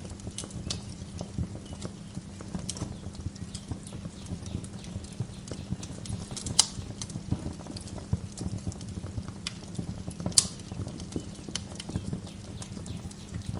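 Wood fire crackling in a fireplace: a steady low rumble of burning logs with frequent small pops and snaps, and two sharper, louder pops at about six and a half and ten and a half seconds in.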